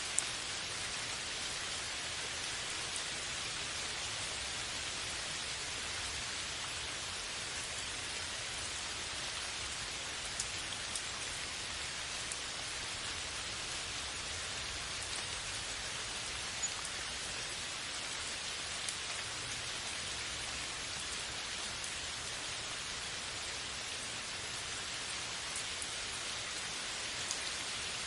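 Steady rain falling, an even hiss with occasional distinct drops ticking on a surface.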